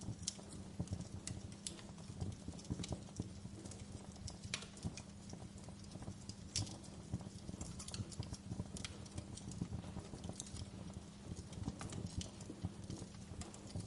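Fire crackling: irregular sharp pops and snaps several times a second over a steady low rumble of burning flames.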